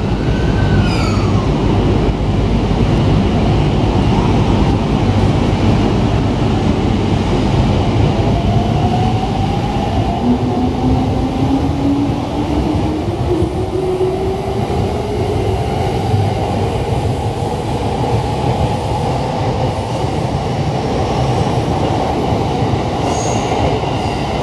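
Electric commuter train pulling away along a station platform, its wheels and running gear rumbling steadily. From about ten seconds in, the traction motors' whine rises slowly in pitch as it gathers speed.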